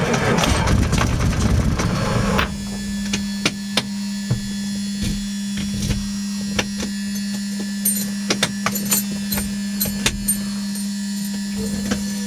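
Cessna 152's Lycoming four-cylinder engine cranked over and firing roughly, then dying about two and a half seconds in: the engine has failed to keep running on the first start attempt. Afterwards a steady electrical hum with scattered sharp clicks.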